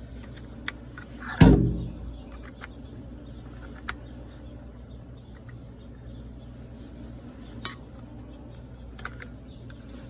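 Small metal clicks and clinks from handling cartridge fuses and meter test leads, with one much louder clunk about a second and a half in, over a steady low hum.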